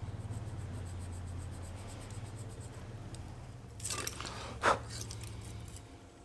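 A steady low mechanical hum that stops near the end, with a short noisy burst about four seconds in and a brief, sharp, louder noise just after it.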